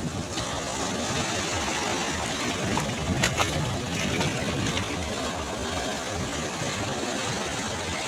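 Sea waves washing steadily on a shore, with a few brief sharp crackles about three seconds in.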